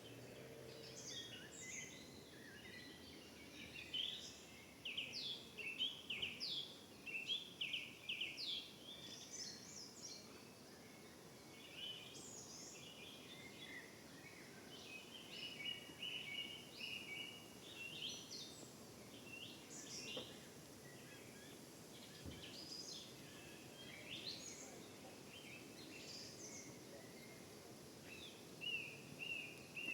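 Several small songbirds singing and chirping together in a forest: short, high, quick notes and trills, overlapping and scattered, over a faint steady background hush.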